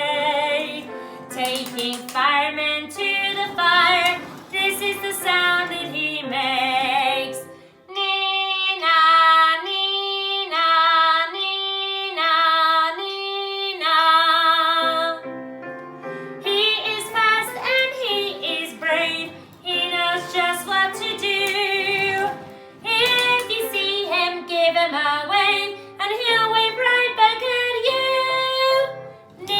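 A woman singing a children's song about a fire engine, with a stretch in the middle where she sings a two-note "nee-naw" siren call, the two notes swapping about once a second.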